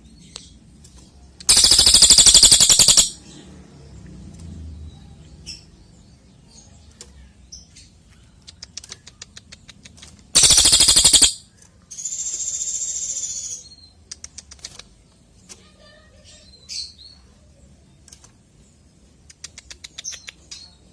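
A cililin songbird singing: scattered short high chirps broken by two loud, very rapid rattling trills, one about a second and a half long, then a buzzy high trill lasting about two seconds.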